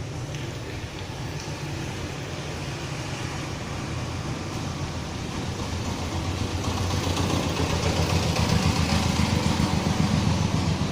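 A steady low mechanical rumble, like an engine running, growing louder about halfway through.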